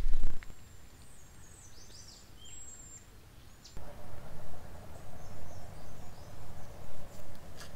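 Outdoor ambience: a few short, falling bird chirps over a quiet low rumble, then from about four seconds in a louder, uneven low rumble with a faint steady hum.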